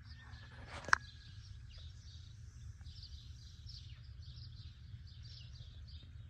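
Small birds chirping over and over in quick short calls, over a steady low rumble of outdoor background noise. A single sharp click about a second in stands out above the rest.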